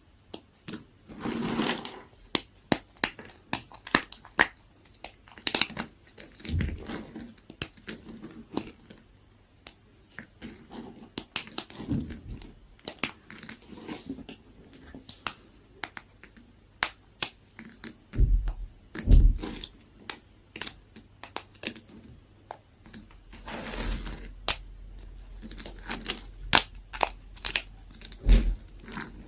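A knife cutting into dry bar soap: irregular crisp cracks and snaps, with stretches of crumbly crunching and a few dull knocks.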